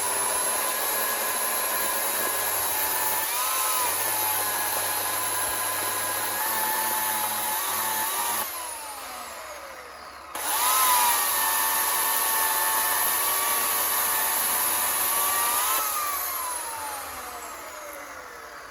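Small electric chainsaw with a thin Panther Cub bar and 1/4-inch .043 mini chain ripping walnut: a steady high motor whine that dips briefly under load. It spins down with a falling pitch about eight seconds in, starts up again about ten seconds in, runs steadily and spins down again near the end.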